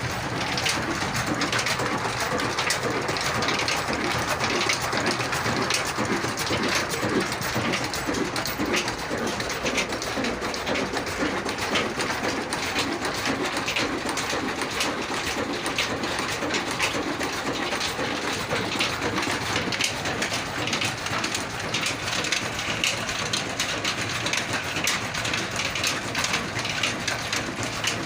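Kala 22-horsepower slow-speed diesel oil engine running, with a dense, steady mechanical clatter of knocks.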